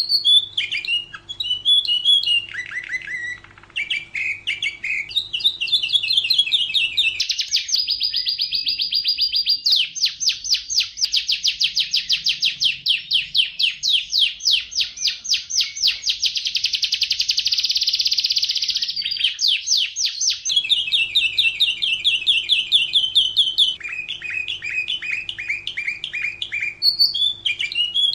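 Domestic canary singing a long, continuous song of rapid trills and rolling phrases, with one long, very fast trill lasting over ten seconds in the middle.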